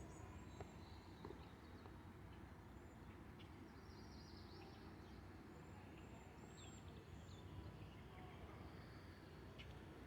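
Near silence: faint outdoor ambience with a low steady rumble and scattered faint, high bird chirps.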